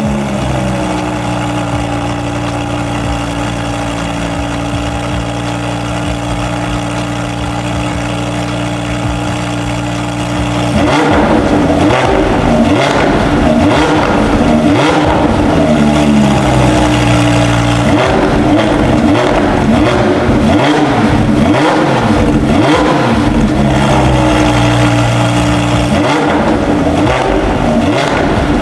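A 2020 Audi R8's naturally aspirated V10, warm, running through a newly fitted full aftermarket exhaust. It idles steadily for about ten seconds, then turns louder and is revved up and down repeatedly, with crackle on the exhaust.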